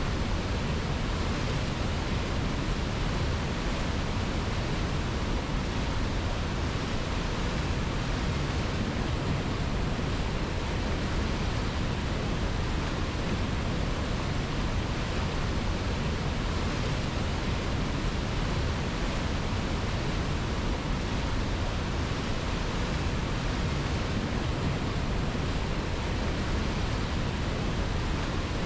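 River water rushing in a steady, even wash of noise that does not change.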